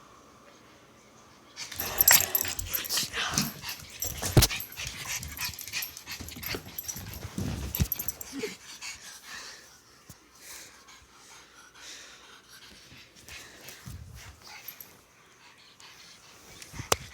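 A pug breathing and moving about close to the microphone, with scuffling and clicking noises. It is busiest from about a second and a half in to about halfway, then quieter.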